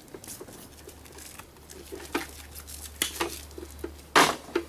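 Hand tools and loose metal parts clicking and clacking while the plug and power cord are taken off a coffee grinder for scrap, with one louder knock about four seconds in, over a steady low hum.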